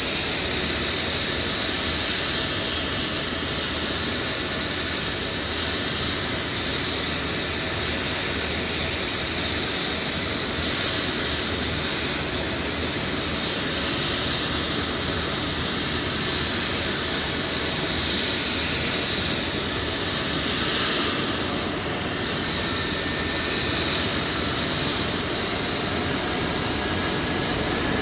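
Airbus EC135 P2 helicopter running steadily, its twin turbine engines giving a high-pitched whine over the rotor noise.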